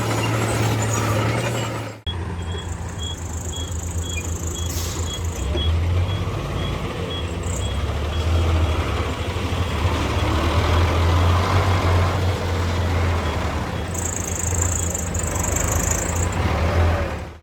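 Heavy diesel earthmoving machinery running under load: a strong low engine drone that rises and falls, with two stretches of high hiss.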